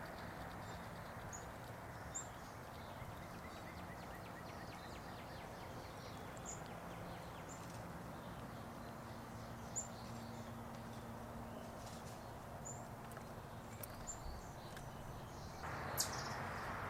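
Quiet outdoor background noise with faint, scattered high-pitched chirps and a few soft clicks.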